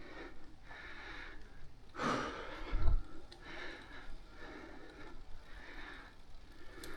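A cyclist breathing rhythmically while riding, about one breath a second. About two seconds in there is a louder whoosh with a low rumble.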